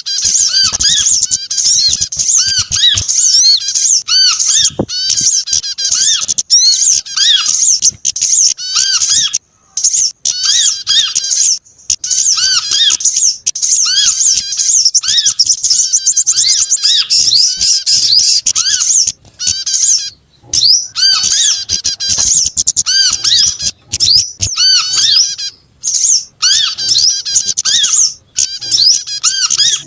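Small songbirds calling in a mixed bird-lure recording: dense, rapid high chirping and twittering over a lower note that repeats several times a second, in long runs broken by a few brief gaps.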